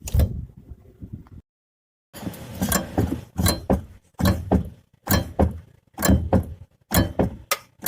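Chery Tiggo 4's brake vacuum booster knocking again and again as the brake pedal is worked, about one knock a second. The knock comes when the pedal is released and is the sign of a faulty vacuum booster.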